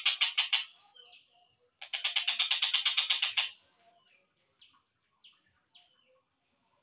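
Collared kingfisher (tengkek buto) calls in a slowed-down tutoring recording: a rapid series of harsh notes, about eight a second, ending about half a second in, a second series from about two to three and a half seconds, then a few short single chirps.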